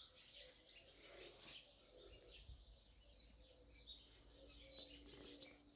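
Near silence with faint bird chirps. A faint steady hum joins about halfway through.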